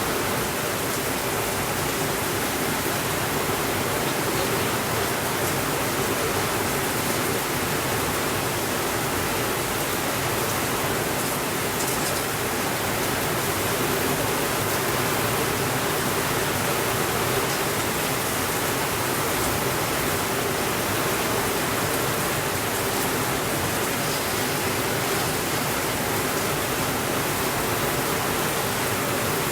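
Steady rainfall: a dense, even hiss that keeps up without a break.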